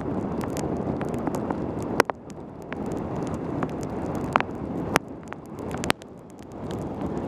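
Steady rushing of wind on a helmet camera's microphone and wet tyre noise on a fast mountain-bike descent in rain. Sharp clicks cut through it about five times, and the rush eases briefly twice.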